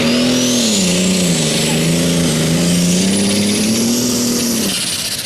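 Turbocharged diesel engine of a Limited Superstock pulling tractor running hard, its note sagging and then climbing back, with a high turbo whine rising in pitch. The engine note drops away about four and a half seconds in.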